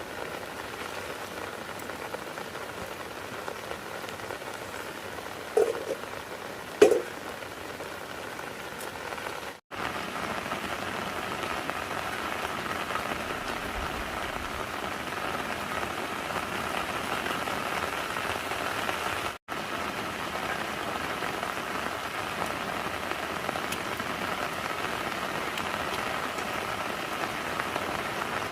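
Steady rain falling, an even hiss of drops on surfaces, with two short louder sounds about six and seven seconds in.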